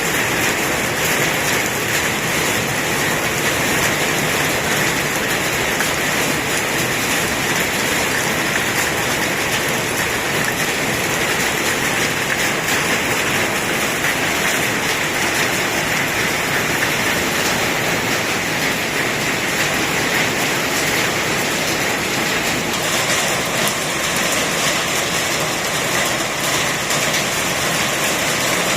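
Steady heavy rainfall, a dense even hiss of rain with no breaks.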